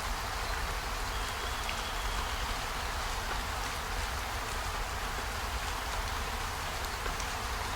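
Steady rain, a dense even hiss with a few faint scattered ticks.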